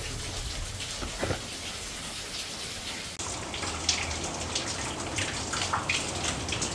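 Heavy rain heard from inside a basement: a steady hiss with scattered drips and taps, changing tone abruptly about three seconds in.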